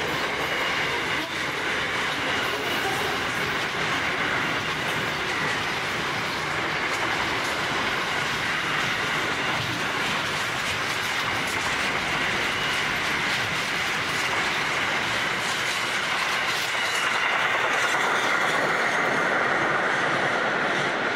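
Container wagons of a long freight train rolling past at close range: a steady rolling rumble, with the clickety-clack of wheels over rail joints and some wheel squeal. Near the end the last wagons go by and the low rumble falls away, while the higher rolling noise carries on.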